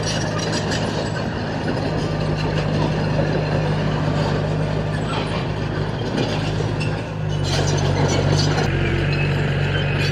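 Diesel engine of a heavy earthmoving machine running steadily under load, with rattling and scraping over the drone. The engine note gets louder about seven seconds in.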